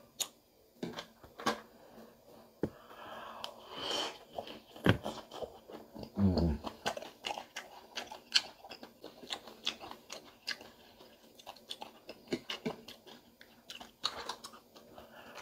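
A person chewing and biting into crispy fried pig tail close to the microphone, with irregular crunches and mouth clicks.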